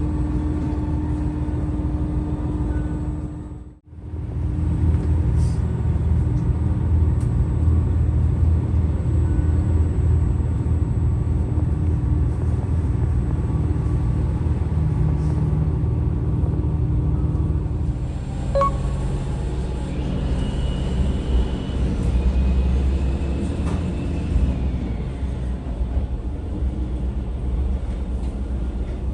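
Steady low rumble of the Setsugekka diesel railcar, the sound cutting out briefly about four seconds in before resuming.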